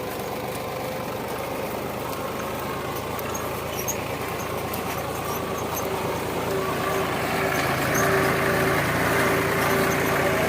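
Tractor engine running steadily, growing louder about two-thirds of the way in.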